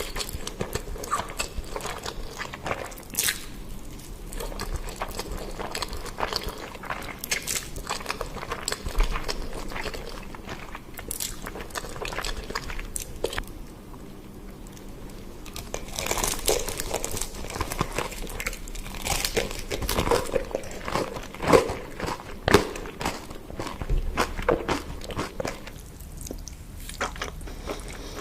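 Close-miked eating ASMR: biting and chewing crunchy food, a run of crisp crunches and crackles that grows busier and louder over the second half.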